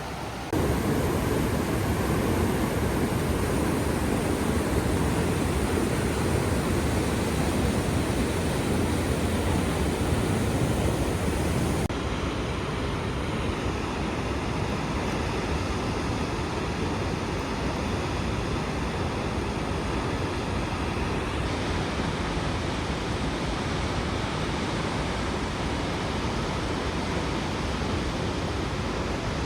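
Waterfall rushing steadily, a dense, even roar of falling water. The sound changes abruptly about half a second in and again about 12 seconds in, as the shot changes.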